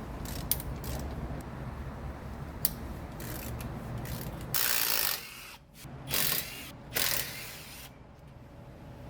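A ratchet wrench loosening the bolts of a Chevy Express van's differential cover, in three short loud runs over a steady low shop hum.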